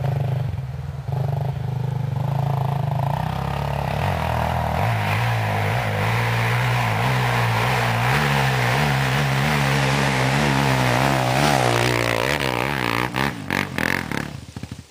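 Off-road dirt bike engine running hard under load on a hill climb, its pitch wavering up and down in the second half. Several sharp clattering knocks near the end before the sound stops suddenly.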